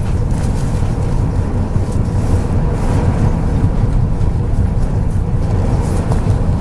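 Steady low rumble of a MAZ 103.562 bus's engine and road noise, heard from inside the moving bus, with faint scattered clicks and rattles.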